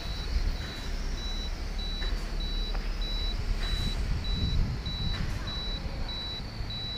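Gusty wind buffeting the microphone in a low rumble, over the faint whine of a Sky Viper V950 toy quadcopter's propellers. A high electronic beep repeats steadily, nearly twice a second.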